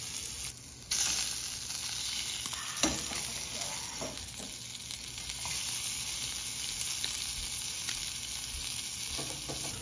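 Frog legs sizzling steadily in hot oil in a stainless steel frying pan, with a few short scrapes and clicks from a metal spatula as they are turned about three to four seconds in.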